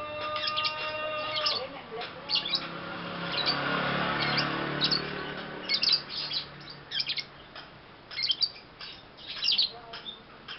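Young lovebird chirping in short, high, sharp calls at irregular intervals. A low noise swells and fades around the middle.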